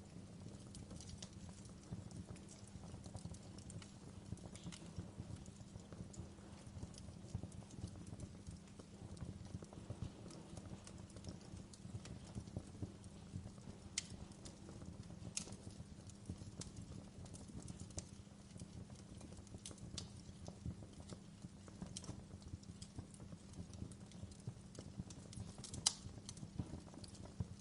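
Wood log fire burning in a fireplace: a soft low rumble of the flames with frequent small crackles and a few sharper pops scattered throughout.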